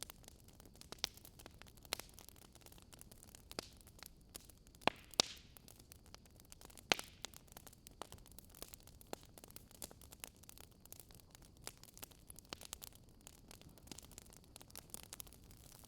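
Wood fire crackling: a soft steady hiss with irregular sharp pops and snaps, a few of them louder, about five seconds in and again about seven seconds in.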